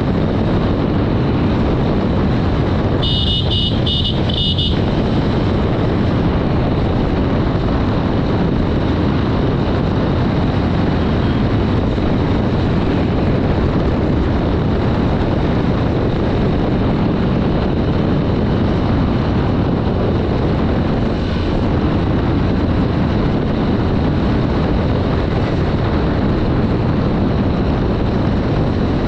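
Steady wind rush and engine noise from riding a Honda Dream 110, a 110cc single-cylinder commuter motorcycle, at road speed. About three seconds in, a horn sounds in a quick string of short beeps.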